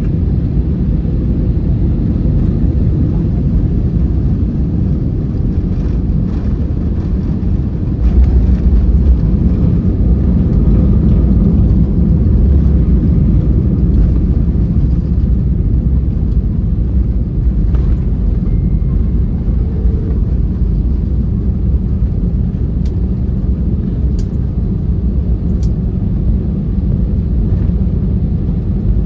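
Airbus A321 jet noise: a steady low rumble of the engines and airframe that swells louder about eight seconds in and eases off a little after about sixteen seconds.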